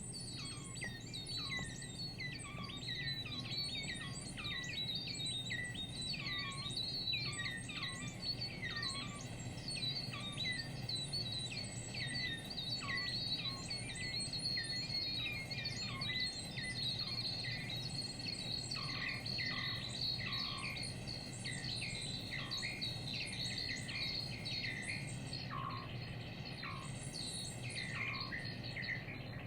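Minimoog synthesizer patch on an iPad making rapid, bird-like chirps: many short, quick pitch sweeps over a steady low drone. The chirping stops abruptly right at the end.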